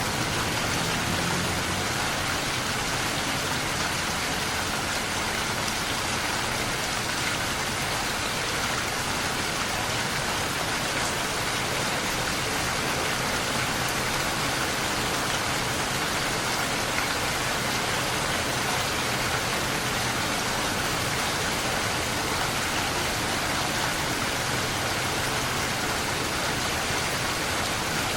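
Steady, even rainfall, a constant hiss of rain falling on surfaces.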